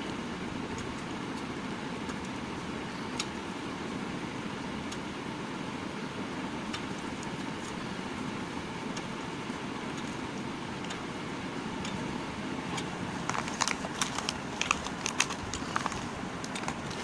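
Bar soap being cut, with sparse crisp crackling clicks that bunch into a quick cluster of crackles about three quarters of the way through. A steady low background rumble runs underneath.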